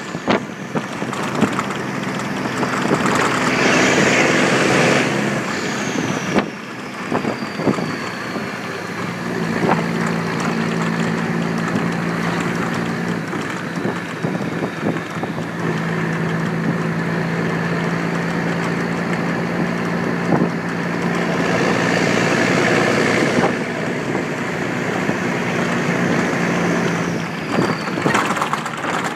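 1976 Scania 111's 290 hp straight-six diesel with a straight exhaust pulling uphill unladen, its engine note dropping and changing a few times as it works up the grade.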